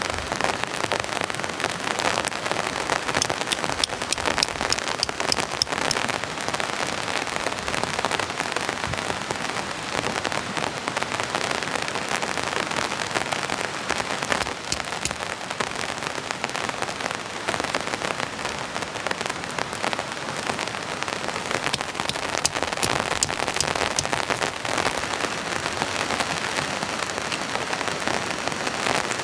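Heavy rain falling steadily: a dense hiss peppered with many sharp drop hits.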